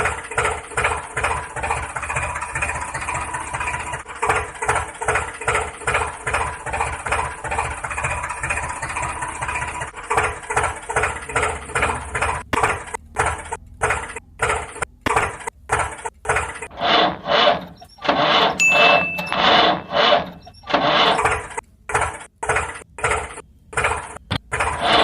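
A small motor running with an even pulsing beat, about two to three pulses a second, turning choppy with short gaps from about halfway through.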